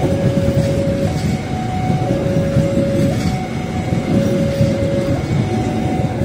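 A train rumbling past. Over it, a two-tone alarm switches steadily between a low note and a higher note, each held about a second.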